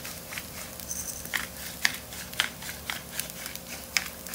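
Garlic fried rice frying in a hot pan: irregular sharp crackles and pops, two or three a second, over a faint steady sizzle.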